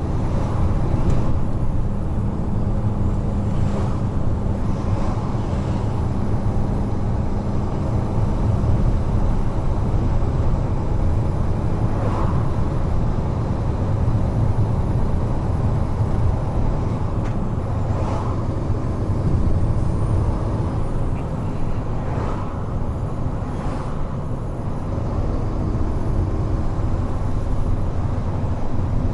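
Heavy truck cruising on an expressway: a steady low diesel engine hum with continuous tyre and road noise.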